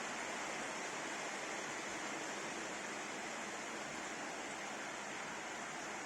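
Heavy rain falling steadily during a thunderstorm downpour, an even hiss with no thunder.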